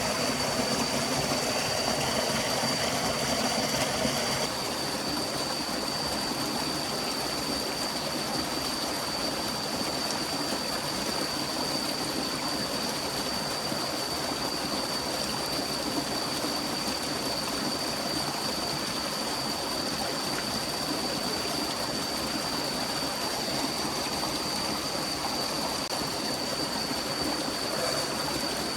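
Steady rushing of a forest stream, with a thin, steady high-pitched tone running through it. A lower layer of sound drops out suddenly about four seconds in.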